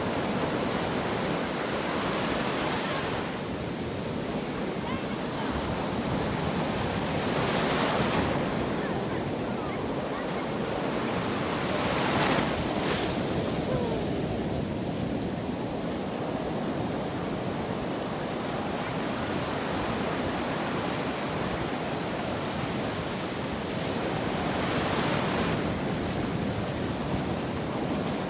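Sea surf washing onto the shore: a continuous rush of water that swells louder several times as waves break.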